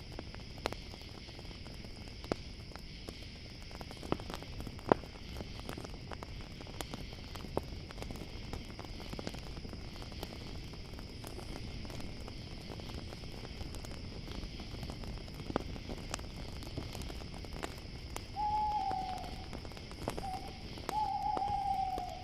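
An owl hooting near the end: three calls, long, short, long, each falling slightly in pitch. Under it runs a campfire crackling with scattered sharp pops, and a steady high chirring of crickets.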